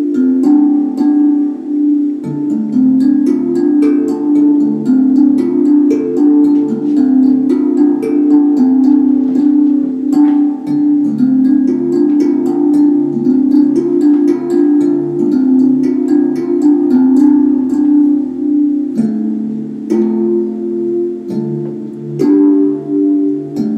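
Steel tongue drum cut from a propane tank playing a melody of struck, ringing notes over a steady, repeating low pattern.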